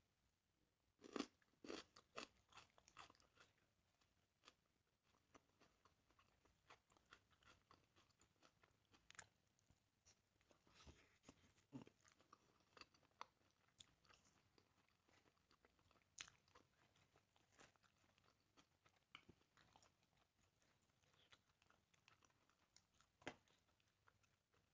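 Faint close-up chewing and crunching: crisp bites of raw onion, loudest in the first few seconds, then softer chewing of grilled chicken with scattered small clicks and smacks.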